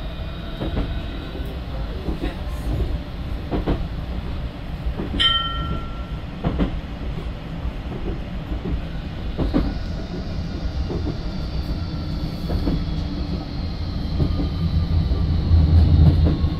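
Tram running along its track, heard from on board: a steady low rumble with knocks over the rails and a short beep about five seconds in. A motor whine rises about halfway through, and the running grows louder near the end.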